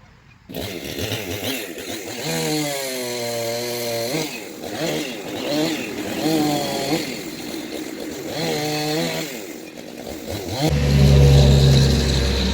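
Chainsaw revving up and down in several bursts, its pitch rising and falling each time. Near the end a louder, deeper steady engine sound comes in.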